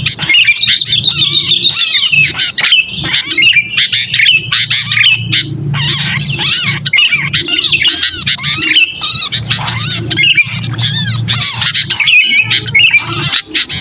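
Sooty-headed bulbuls giving harsh distress calls: a dense, unbroken run of quick chirps and squawks, the call of a trapped or held bulbul that is used to lure wild bulbuls down. A steady low hum runs beneath.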